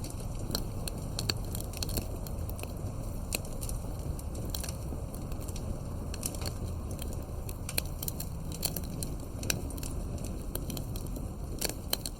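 Fireplace crackling: irregular sharp pops and snaps over a steady low background noise.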